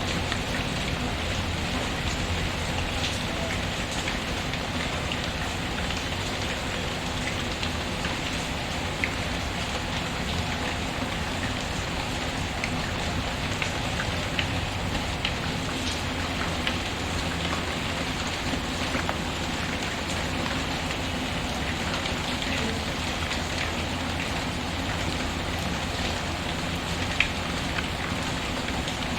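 Steady rain falling with a wood fire crackling: an even rain hiss with scattered sharp ticks and pops, one louder pop near the end.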